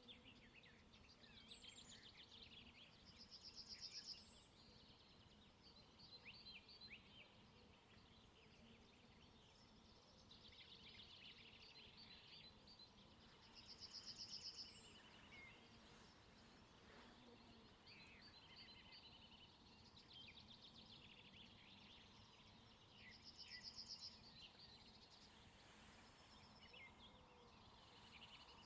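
Faint dawn chorus of songbirds with many overlapping chirps and calls; one bird repeats the same song phrase ending in a fast high trill about every ten seconds, three times.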